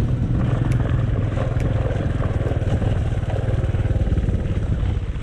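Small motorcycle engine running steadily with a fast, even beat.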